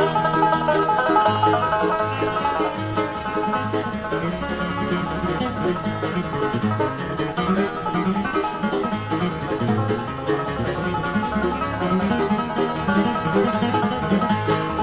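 Bluegrass band playing a fast instrumental breakdown: the banjo takes the lead over guitar, mandolin and a walking bass line, with no singing.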